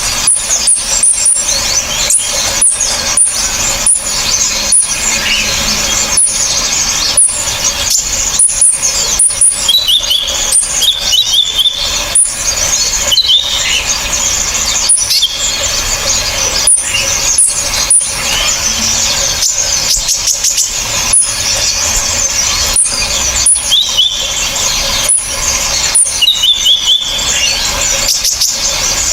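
Several small songbirds' songs layered together, singing without pause: dense, sharp, harsh, high-pitched chirping and fast ticking calls, with short whistled phrases about ten seconds in and again near the twenty-four-second mark. A bird-training master track of the kind played for songbirds to copy.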